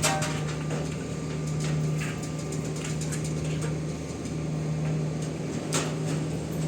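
A steady low machine hum, with a sharp knock at the start and another near the end.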